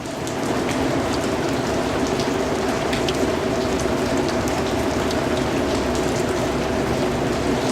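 Steady rain: a dense hiss with many single drops ticking through it. It swells up in the first half second, then holds level.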